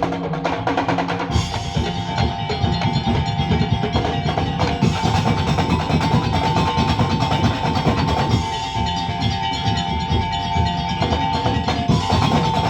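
Madurese ul-daul percussion ensemble playing: dense, fast drumming and wood-block-like clacking under a held, high melody line. The sound gets fuller about a second in.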